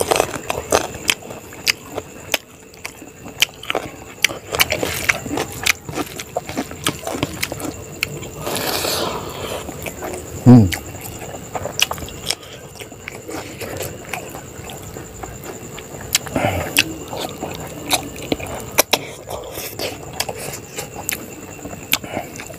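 Close-miked eating: wet chewing and lip-smacking with many sharp mouth clicks as a man eats chicken and rice by hand. About ten seconds in comes a short, low vocal sound dropping in pitch, the loudest moment.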